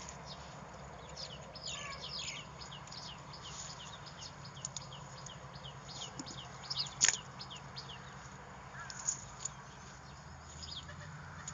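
Birds chirping: many short, high calls that sweep downward, repeated throughout, with a sharp click about seven seconds in over a low steady hum.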